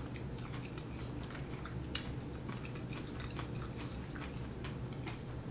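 Person chewing a mouthful of salad: a string of small irregular clicks, one sharper about two seconds in.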